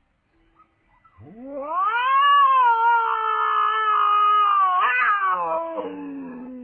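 A cat letting out one long, drawn-out yowl that starts about a second in, rises quickly in pitch, holds, then slowly falls.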